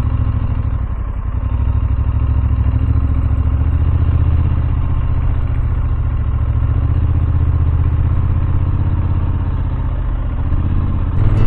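Motorcycle engine running steadily as the bike rides up a steep climb, a low even drone with a slight dip in level about a second in and again near the end.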